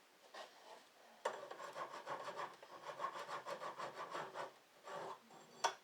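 A hand tool worked in quick back-and-forth strokes against the wooden end of a garage door, shaping the cut edge. The strokes start about a second in and run steadily for some three seconds. A sharp click comes near the end.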